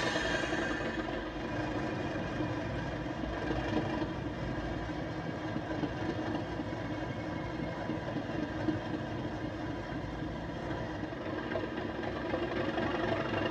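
OO gauge model locomotive with a DCC sound decoder playing a steady diesel engine running sound through its small speaker, over a low rumble of the model running on the track.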